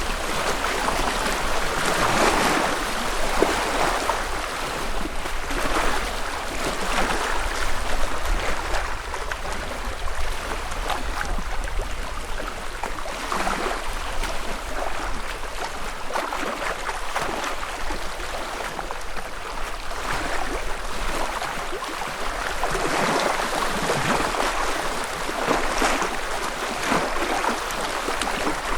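Small lake waves lapping and splashing gently on the shore, swelling and fading every few seconds with little splashes.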